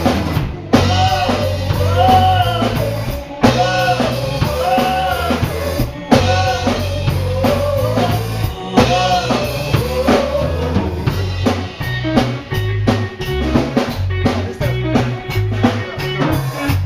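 Live band music: a drum kit with bass and a pitched melodic line arching up and down above it. The full band cuts out sharply for a moment several times, then comes straight back in.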